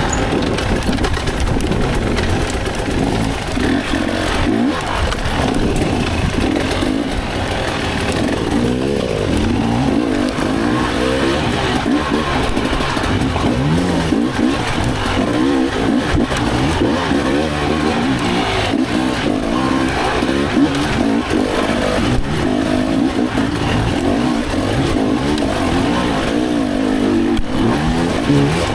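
Dirt bike engine revving up and down repeatedly, the pitch climbing and dropping every second or two as the bike is ridden over tight, technical trail.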